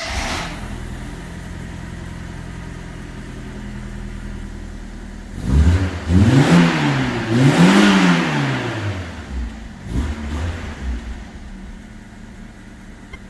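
Fiat Seicento's 1.1-litre engine idling steadily through its exhaust, then revved twice about six and eight seconds in, the pitch rising and falling each time, before settling back to idle after a couple of small blips.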